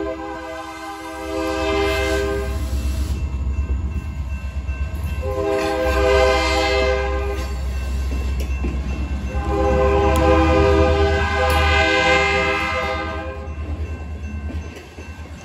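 Freight train rolling past with a steady low rumble, while a locomotive horn sounds three long chords: one ending about two seconds in, a second in the middle, and a longer third.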